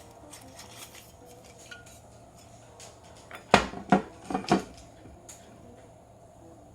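Metal cookware clinking and knocking: light taps, then about four loud clanks in quick succession a little after the middle, as a utensil knocks against the small thick iron griddle plate on its mini grill stand.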